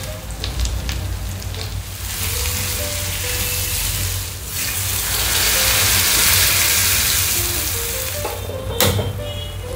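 Split lentils, onion and potato pieces sizzling as they fry in a black kadhai, stirred and scraped with a wooden spatula. About halfway through, water goes into the hot pan and the sizzle swells into a louder hiss for a few seconds. A sharp knock near the end.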